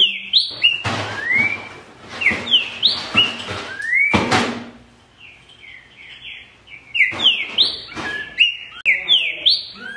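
Green-winged saltator (trinca-ferro) singing loud phrases of quick slurred whistles, repeated in several bursts with short pauses between. A brief knock sounds about four seconds in.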